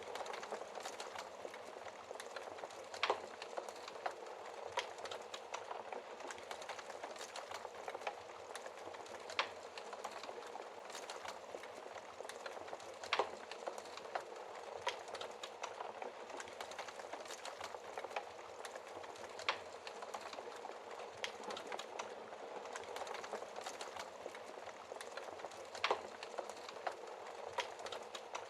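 Wood fire crackling steadily, a constant hiss of small snaps from burning logs, with four louder pops spaced several seconds apart.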